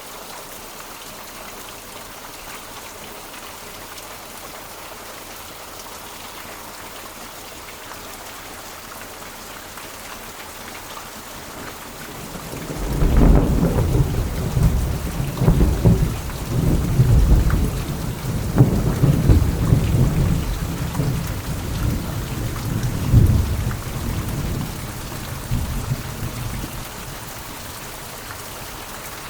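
Heavy rain falling steadily. About twelve seconds in, thunder starts and rolls in a long low rumble for over ten seconds, swelling several times before fading back into the rain.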